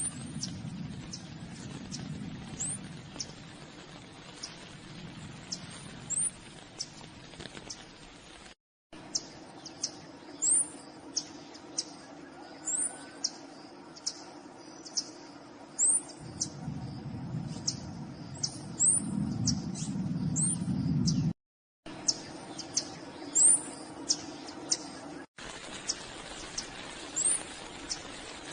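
Small birds giving high, thin chirps, each a short upward flick, repeated about every second over a low background hiss. The sound drops out briefly three times.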